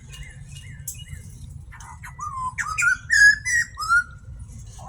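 Zoo birds calling: a run of short, high chirps, then louder gliding, whistle-like calls that rise and fall between about two and four seconds in.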